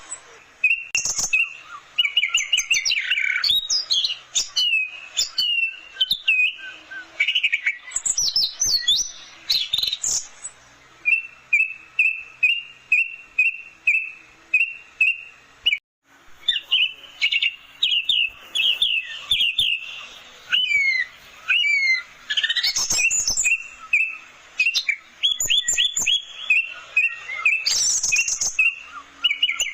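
Orange-headed thrush (anis merah) singing a rapid, varied song of high whistled notes, slurs and trills. About a third of the way in it repeats one short note evenly, several times a second.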